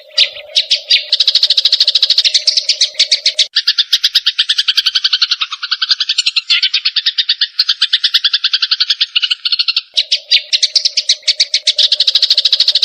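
Grey-cheeked bulbul (cucak jenggot) and Eurasian tree sparrows (burung gereja) chattering in an agitated squabble: a fast, unbroken run of harsh chirps. A steady low hum sits under the first few seconds and returns near the end.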